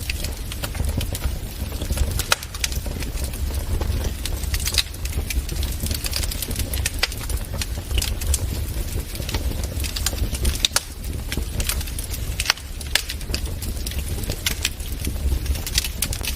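Wood fire crackling in a fireplace: frequent irregular sharp pops and snaps over a low steady rumble of burning.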